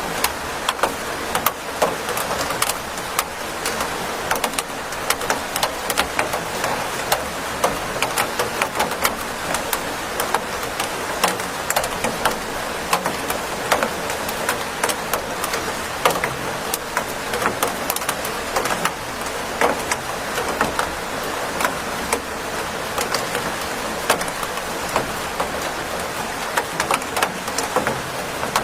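Steady rain: an even hiss of rainfall with many separate drops clicking sharply as they land.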